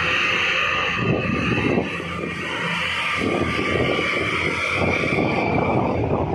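Heavy diesel engine running steadily with a low rumble and a constant high-pitched whine over it.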